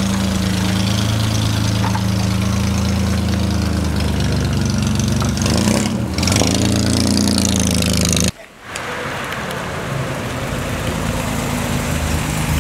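An Austin-Healey sports car engine running at a steady idle, with the revs rising and falling briefly a little past the middle. The sound cuts off abruptly after about eight seconds and is followed by another engine running more roughly.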